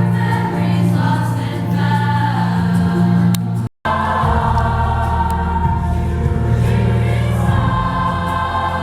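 A choir singing held chords, cut off for an instant about four seconds in and then carrying on.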